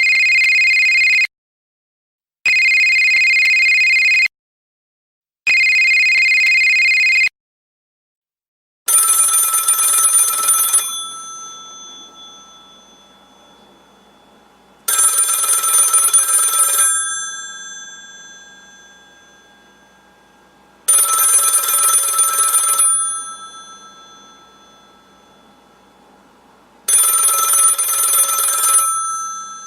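An electronic telephone ringer sounds three steady bursts of about two seconds each with short silent gaps, then gives way about nine seconds in to an old telephone's metal bell, which rings four times about six seconds apart, each two-second ring dying away slowly, over a faint hum.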